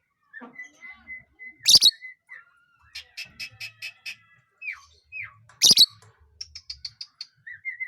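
A lovebird calling: strings of short repeated chirps, two loud harsh calls (one about two seconds in, one near six seconds), quick rattling runs of clicky notes, and a couple of falling whistled notes.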